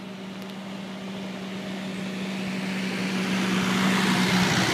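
A tractor engine running steadily as it drives closer, getting louder and peaking as it passes near the end.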